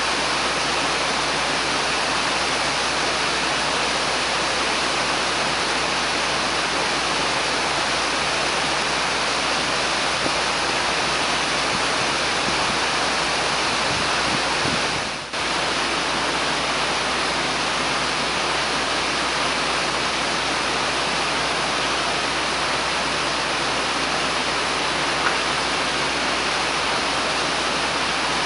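Steady rushing of Nachi Falls, a high single-drop waterfall, plunging into its pool. It briefly dips about halfway through.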